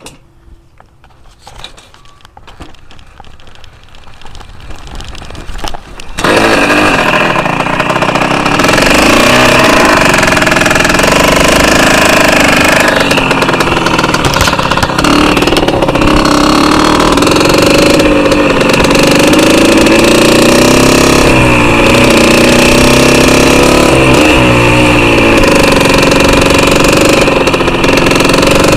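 1981 Honda CR80 Elsinore's 80cc two-stroke engine being bump-started: after some quieter clicks and scuffing, it catches about six seconds in and runs loud, revving up and down.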